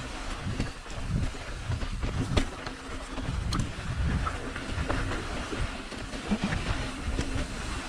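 Rumbling and rattling of a bike rolling over rough trail, with irregular clicks and knocks throughout.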